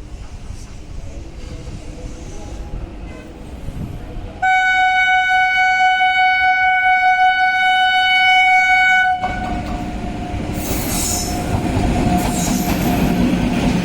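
An Indian Railways express train approaching at speed and running through the station: a growing rumble, then one long steady horn blast of about five seconds starting about four and a half seconds in, then the loud rumble and wheel clatter of the train going by.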